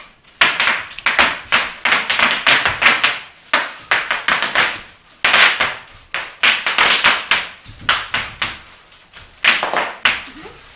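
Bubble wrap popping: many sharp pops in irregular clusters, with crinkling plastic between them.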